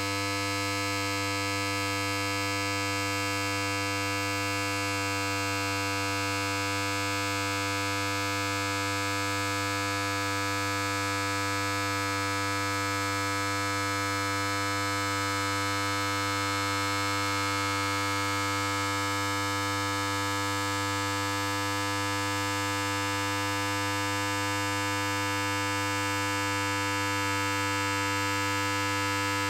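Electric hair clipper running continuously, a steady unchanging buzz.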